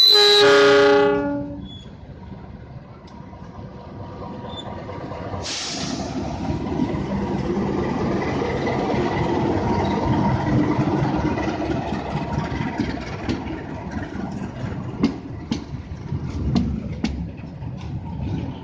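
A locomotive horn sounds one loud blast of about a second and a half. A freight train of fuel tank wagons then rolls by during shunting. A sudden hiss comes about five seconds in, and repeated wheel clacks over the rail joints are heard in the last few seconds.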